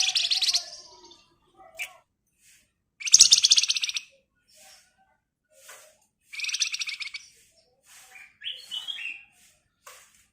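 A flamboyan (wergan Jawa) songbird singing its rapid rattling trill ('ngebren') three times, each burst lasting about a second and coming about three seconds apart. Short chirps come between the trills, and a few stepped whistled notes sound near the end.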